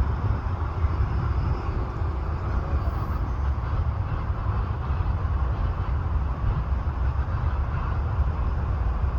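Steady low rumble of a moving vehicle, with an even hiss over it and no distinct events.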